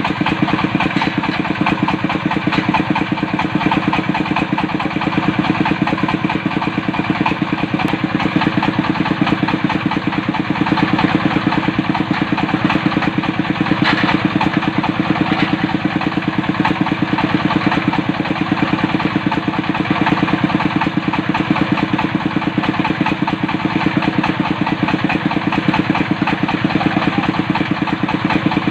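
Diesel engine of a water-well drilling machine running steadily, with a fast, even beat.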